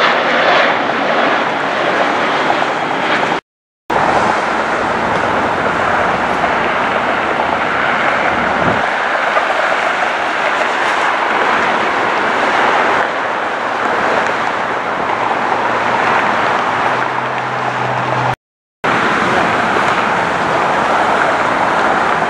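Jet airliner engine noise, a loud steady rush, cut off abruptly twice, about three and a half seconds in and near the end, as separate clips join.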